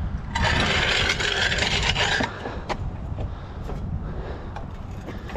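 A heavy, water-filled scrap item scraping as it slides across a surface for about two seconds, followed by a few light knocks.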